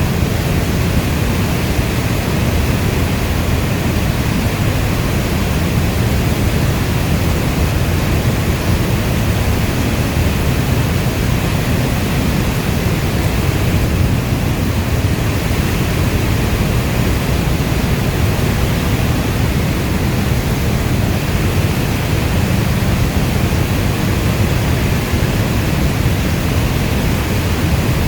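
Steady rainstorm: a dense, even rush of rain, heaviest in the low end, with no thunder or single drops standing out.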